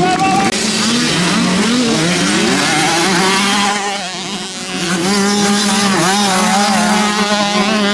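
Motocross motorcycle engines racing, revving up and down with overlapping pitches from more than one bike. The sound dips briefly about four seconds in.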